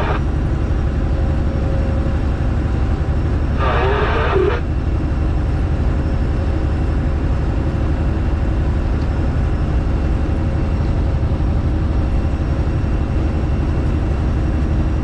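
Straight-piped Detroit Diesel engine in a Freightliner Classic XL, running steadily under way with a loud, even exhaust drone.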